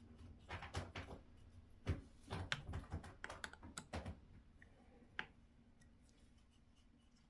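Hand tools on an RC car's front suspension: a driver turning a screw and parts knocking together, heard as irregular light clicks and taps that thin out after about five seconds.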